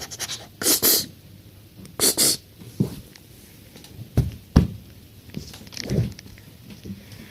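A dog moving about, with two short breathy puffs in the first couple of seconds and a few soft thumps and knocks after.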